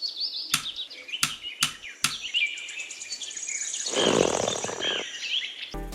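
Birds chirping with many short, quick high calls, broken by a few sharp clicks in the first couple of seconds and a short rushing noise about four seconds in.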